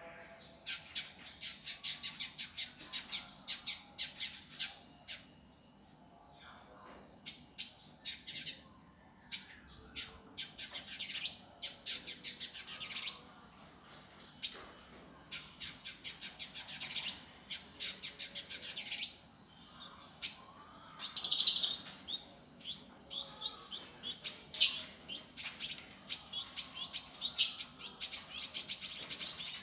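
Indigo bunting singing a fast, dense song: runs of sharp high chirps repeated several times a second, broken by short pauses, with a few louder notes about two-thirds of the way in.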